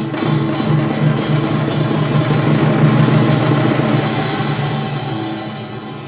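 Korean traditional percussion ensemble of janggu, kkwaenggwari, buk and jing playing a fast, dense rhythm together. The playing swells to its loudest mid-way, then tapers off near the end.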